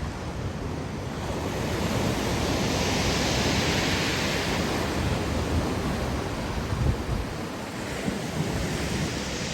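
Black Sea waves breaking and washing up the beach: a hiss of surf swells about two seconds in, fades by about five seconds, and builds again near the end. Wind rumbles on the microphone underneath.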